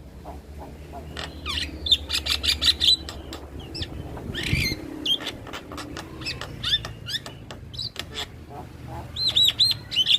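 Black-winged starling (jalak kebo) singing a fast, varied song of chirps, clicks and whistled notes, with a quick run of looping whistles near the end. A low steady hum lies underneath.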